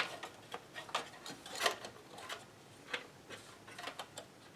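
Faint, irregular small clicks and taps of computer hardware being handled while RAM modules are fitted into a motherboard's memory slots.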